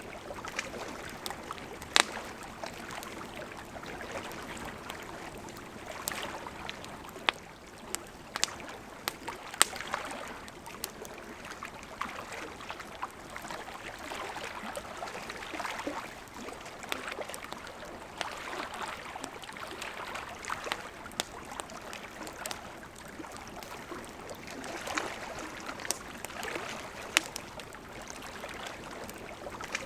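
Campfire wood crackling, with irregular sharp pops and snaps, over the steady rush of a gently flowing river.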